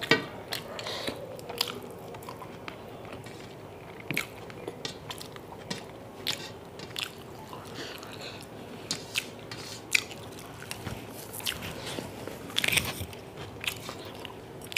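Close-up sounds of someone chewing chicken curry and rice eaten by hand, with many scattered sharp clicks and crunches from the mouth.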